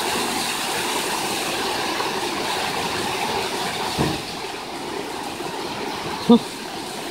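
Water-powered sawmill carriage running back along its track in reverse, a steady mechanical clatter over rushing water, which stops with a knock about four seconds in. A short sharp sound follows near the end.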